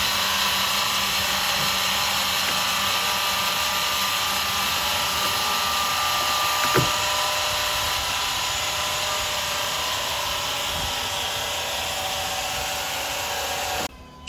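A power saw running steadily through a log, a loud even machine noise with a faint whine, which stops suddenly just before the end.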